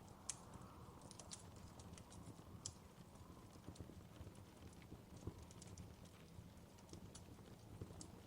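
Wood fire crackling: irregular sharp pops and ticks over a low, steady rumble of the flames.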